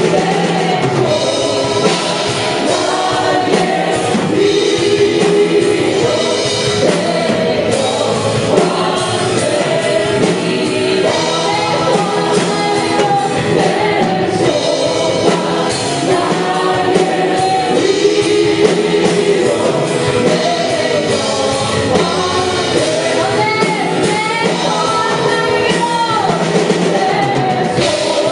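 Live worship music: a praise team singing a song together with band accompaniment.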